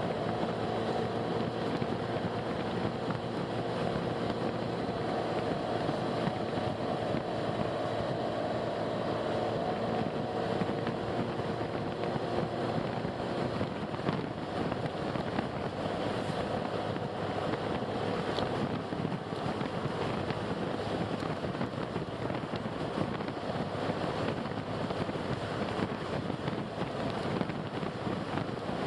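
Steady noise of a car on the move: road and wind noise, with a faint engine drone that fades out about halfway through.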